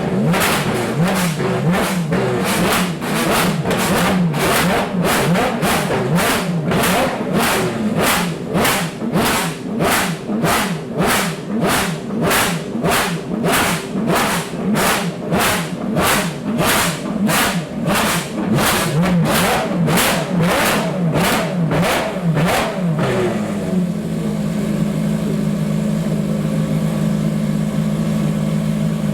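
Ferrari FXX-K Evo's V12 engine being revved in quick repeated blips, about two a second, its pitch rising and falling with each one; about 23 seconds in it settles to a steady idle.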